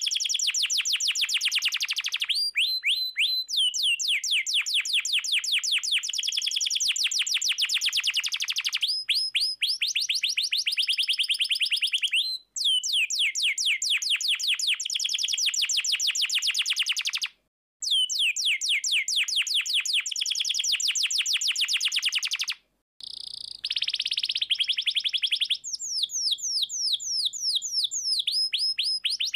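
Domestic canary singing long, fast trills and rolls of high, repeated notes, about ten a second, with a few short breaks between phrases.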